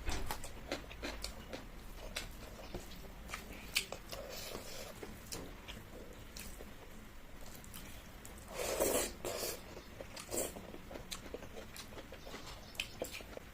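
Close-up eating sounds: chewing and biting with small scattered clicks, and a louder, longer burst of mouth noise about nine seconds in.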